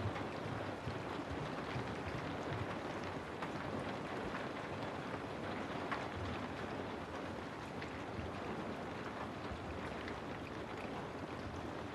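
Steady rain falling on a house, an even hiss with scattered sharper drop ticks.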